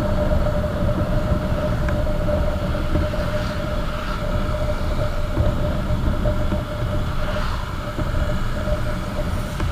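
Motorcycle under way at a steady speed: a constant low wind and road rumble with a steady engine hum.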